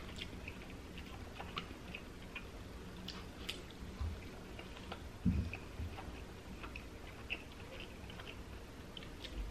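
A person quietly chewing a mouthful of burger steak with rice and gravy, with scattered faint mouth clicks and a couple of soft low thumps about four and five seconds in.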